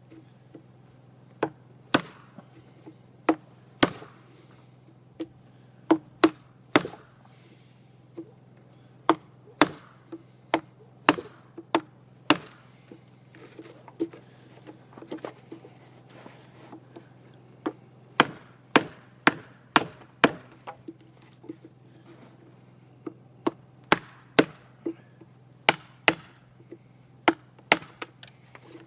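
Repeated sharp blows struck through a block of wood, knocking out the thin slices of waste left between saw kerfs in a notch cut in timber. The strikes come irregularly, several a second in runs with short pauses between, some much louder than others.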